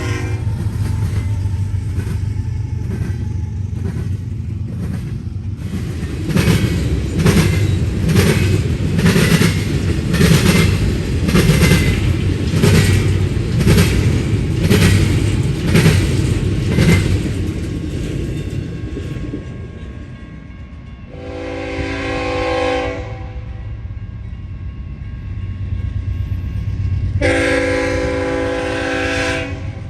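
Passing freight train: a steady low diesel rumble with regular wheel clacks over the rail joints, about one and a half a second, that fade out, then two blasts of a locomotive's multi-chime air horn, each a couple of seconds long.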